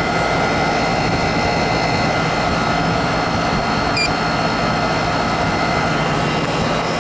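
Central air conditioner's outdoor condensing unit running steadily, compressor and condenser fan together, in its cooling run after an evaporator coil replacement. A short high beep sounds about four seconds in.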